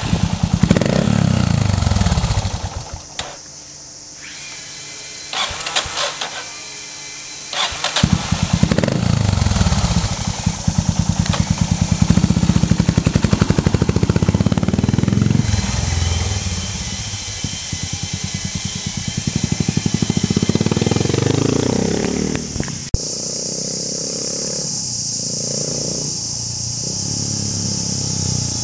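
Single-cylinder motorcycle engine revved and ridden: repeated throttle blips and runs up and back down through the revs. About 23 seconds in the sound changes abruptly to a steady hiss, with the engine only faint beneath it.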